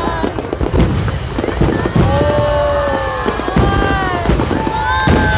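Aerial fireworks going off in a dense barrage: repeated sharp bangs over a continuous low rumble and crackle.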